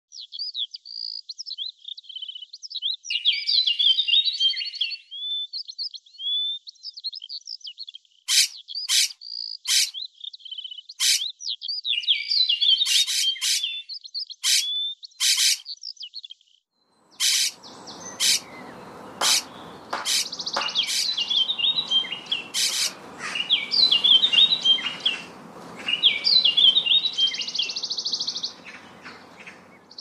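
Songbirds chirping and trilling in quick, varied phrases, with sharp high chips among them. From a little past halfway, a steady low rushing noise sits beneath the birdsong.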